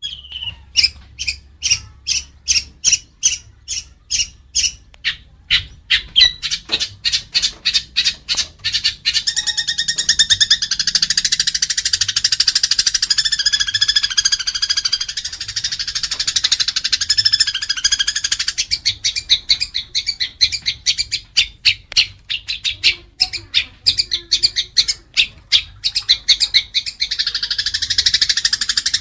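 Songbird song played as a masteran (training song) for a long-tailed shrike: sharp repeated notes at about two to three a second that quicken into a dense, buzzy, continuous warble about nine seconds in, break back into quick chips, then run together again near the end.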